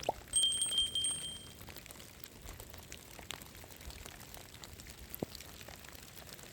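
Light rain dripping and pattering as scattered faint ticks over a soft hiss. A brief steady high ping sounds about a third of a second in and lasts about a second.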